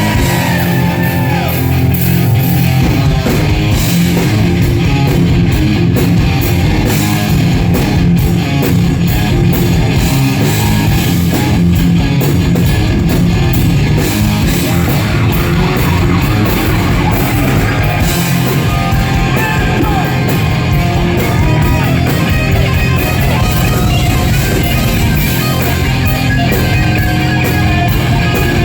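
Hard rock band playing live and loud: distorted electric guitars, bass and drums, with singing at times.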